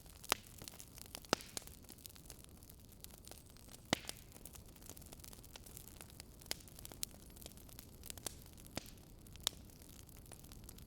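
Fireplace fire crackling: irregular sharp pops and snaps over a soft steady hiss. The strongest pops come just after the start, at about a second in, and at about four seconds in.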